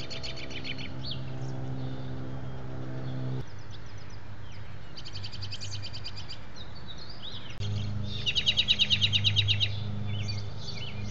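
American robin calling in several bursts of rapid repeated high notes, the loudest and longest about eight seconds in, with a low steady hum underneath.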